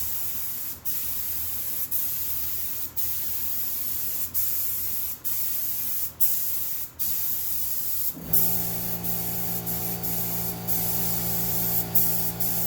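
Spray gun misting PVA mould release in light, quick passes: a steady high hiss that breaks off for an instant about once a second. About eight seconds in, a steady motor hum starts under the spray.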